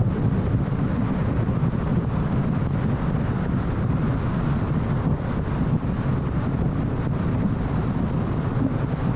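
Steady road noise from a car cruising on the freeway: a low tyre rumble with wind noise, unchanging throughout.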